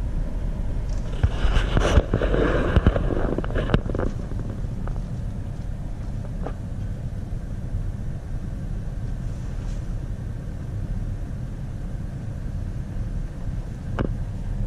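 Steady low rumble of a motor under way, with wind on the microphone. A louder burst of noise with a few sharp knocks comes between about one and four seconds in, and there is one more knock near the end.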